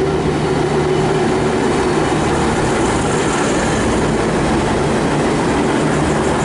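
V/Line VLocity diesel multiple unit running at the station platform, its diesel engines giving a steady hum over the noise of the train.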